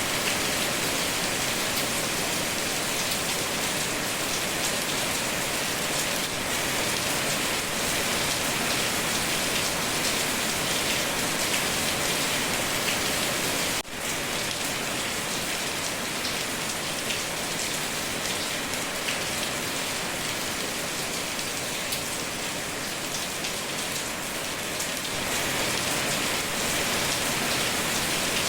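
Steady, heavy rain falling and pattering on a surface, with a momentary dropout in the sound about halfway through.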